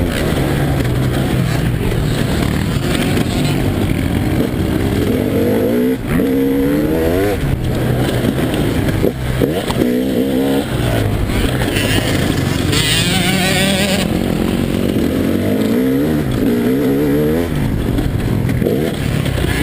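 A KTM EXC 300's single-cylinder two-stroke engine revving hard again and again, its pitch climbing through each gear and dropping back as the bike is ridden around a motocross track. A short hiss cuts in about two-thirds of the way through.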